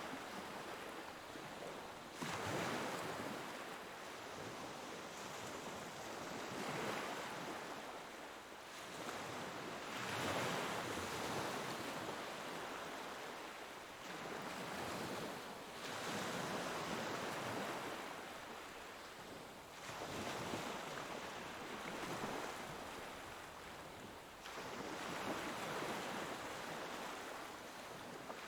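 Ocean waves breaking and washing up on a shore, one surge every four to five seconds, each swelling and then fading.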